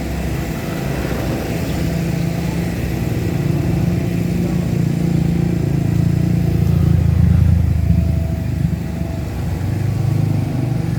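Diesel engine of a Komatsu PC75 long-arm excavator running under load as it digs mud from the riverbed, a steady low drone that swells and labours over a few seconds about two-thirds of the way through, eases, then rises again near the end.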